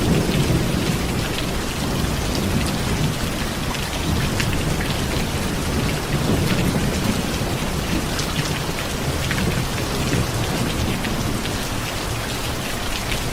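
Steady heavy rain falling, with many close drop hits and a low rumble of distant thunder underneath.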